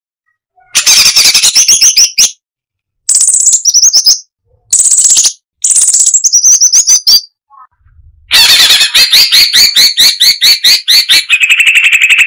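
Crested finchbill (cucak cungkok) singing in loud bursts of rapid, closely packed chattering notes, five phrases broken by short silences. The last phrase is long and runs on into a steady high held note near the end.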